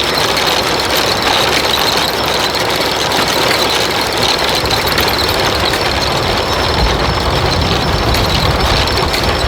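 Old belt-driven peanut thresher running steadily, together with the engine that powers it.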